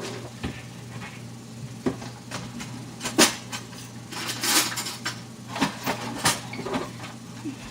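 Kitchen supplies being gathered and handled: scattered knocks and clatter of dishes, cupboard doors and utensils, the loudest knock about three seconds in, over a steady low hum.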